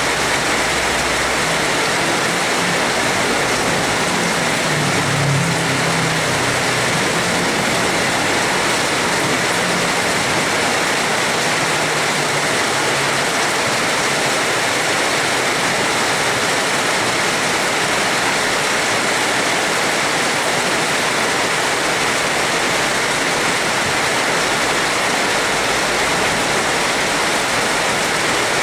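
Steady heavy rainfall, a dense even hiss without a break, with a faint low rumble about five seconds in.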